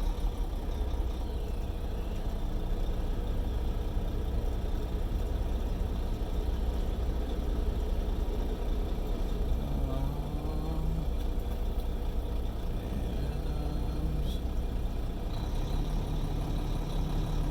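Semi truck's diesel engine running at low revs, heard from inside the cab as the truck reverses slowly. The engine note shifts a little about ten seconds in and again near the end.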